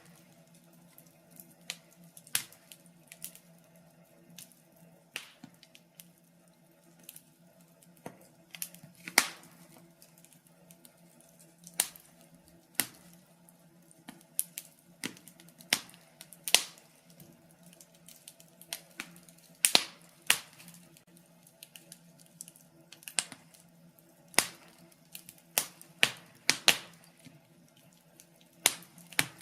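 Logs burning in a fireplace, crackling with irregular sharp pops, a handful of them much louder than the rest, over a faint steady low hum.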